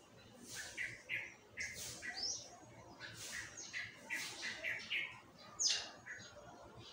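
Small birds chirping: a run of short, quick chirps, with one rising call a little over two seconds in and a louder falling call near the end.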